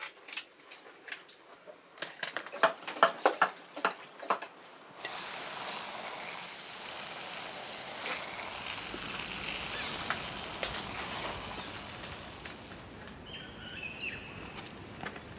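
A run of light clicks and taps, then steady outdoor ambience with a faint hiss like wind, and a brief bird chirp near the end.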